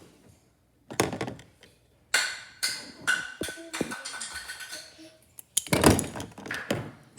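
Several dull thunks and knocks, the loudest near the end, with voices in between.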